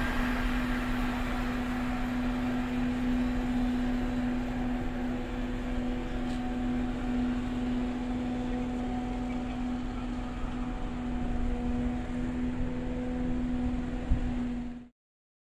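Electric train at the platform: steady rushing noise with a constant low hum. It fades slightly early on, then holds level, and the sound cuts off abruptly about a second before the end.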